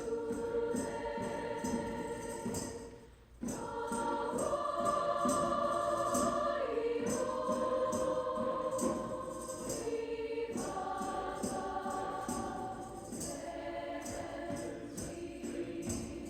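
High school choir singing long held notes in several parts, with a light steady beat under it; the singing breaks off briefly about three seconds in, as if for a breath between phrases, then resumes.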